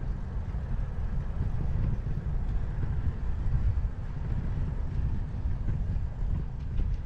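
Wind buffeting the microphone of a camera carried on a moving bicycle, a steady low rumble that rises and falls.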